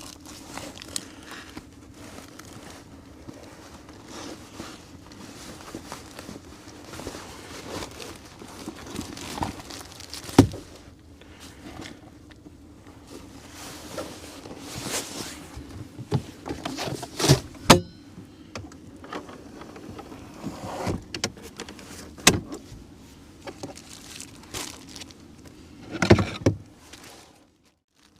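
Camp-cooking handling sounds: irregular knocks, clicks and rustles over a steady low hum, with the sharpest knocks about 10, 17 and 26 seconds in.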